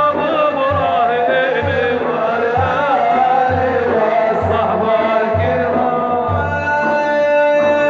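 Male maddah singing an Arabic madih (religious praise song) in an ornamented, wavering melody over a steady low drum beat of about one beat a second. About halfway through, the melody settles into long held notes.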